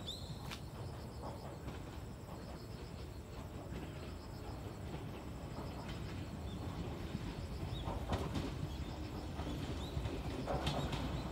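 Low rumble of an Iga Railway electric train approaching slowly on single track, growing louder, with a few sharp knocks late on as it nears. Insects trill steadily and birds give short chirps.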